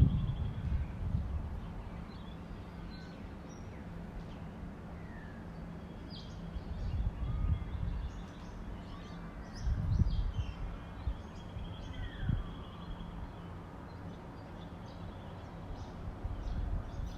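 Wild birds calling at dawn, many short chirps and sliding whistles. Low rumbling bursts come a few times and are louder than the birds.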